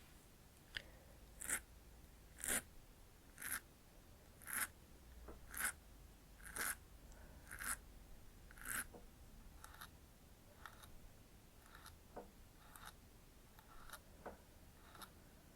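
Mascara wand brushing through lashes in short, scratchy strokes about once a second, fainter and more spaced out in the second half.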